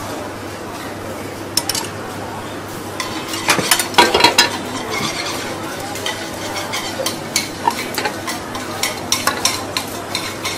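Ginger slices sizzling in shallow oil in small metal pans, with a spoon and utensils clinking against metal bowls and pans; a louder run of clatter comes about four seconds in.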